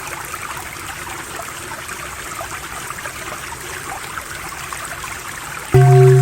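Running water trickling like a small stream, steady and even. About five and a half seconds in, a loud steady low drone tone with a gently pulsing higher tone cuts in suddenly.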